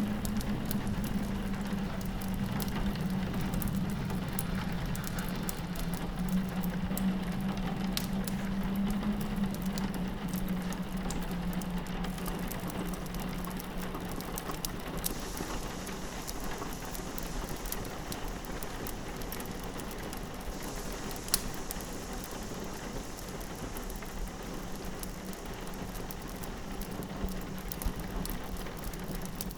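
Steady rain pattering on a window mixed with a fireplace crackling in scattered sharp pops, one louder pop about two-thirds of the way in. A low wind moan sits under it in the first half, then fades.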